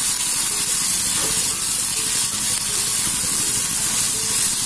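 Oil sizzling steadily in an iron kadai as tomato and spice masala is sautéed and stirred, frying until the raw smell of the spices cooks off.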